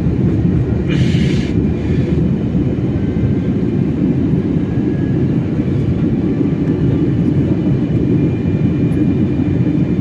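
Steady low rumble of an airliner's engines and airflow heard from inside the cabin, with a brief hiss about a second in.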